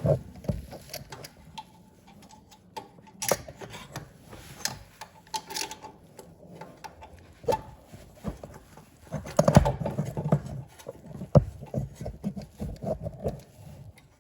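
Small metal parts clicking and knocking irregularly as a snowblower carburetor and its throttle linkage are handled and fitted by hand, with a denser run of knocks about nine seconds in.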